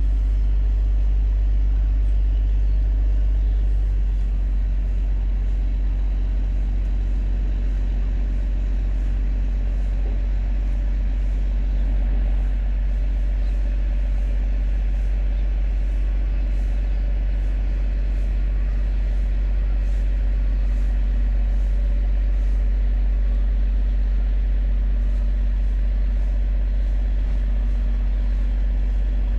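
Towboat engine running steadily under load while towing a cargo barge: a continuous low drone with a deep rumble underneath.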